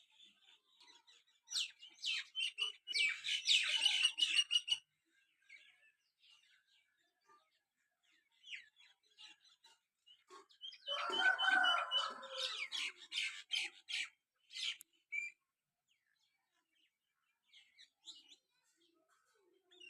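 Myna calling in two bouts of rapid chattering, clicking and whistled notes, the second with lower gurgling notes. Faint scattered chirps come between the bouts.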